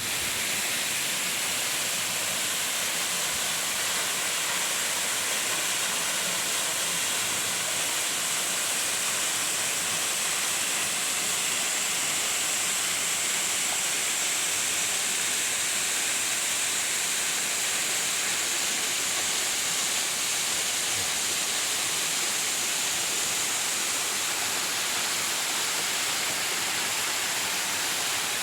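Waterfall: falling water pouring onto rock and pool, a steady hiss with no change.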